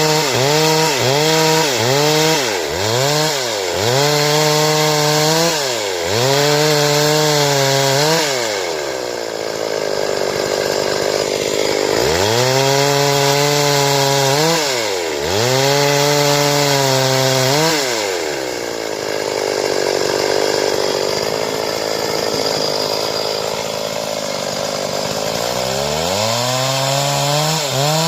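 Stihl chainsaw cutting wood into boards, its engine pitch dipping and climbing back again and again as the chain bites and frees, with two longer stretches of lower, steadier running under load.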